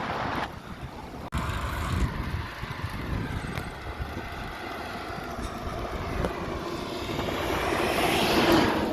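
Wind rushing over the microphone on a moving road bike, with a road vehicle approaching and going by, loudest near the end.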